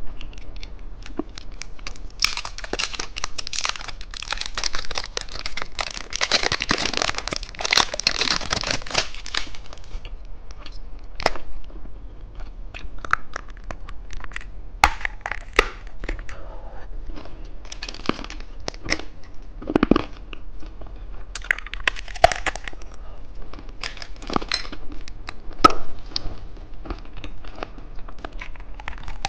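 Plastic candy wrapper crinkling and tearing for several seconds, then scattered sharp clicks and crunches through the rest.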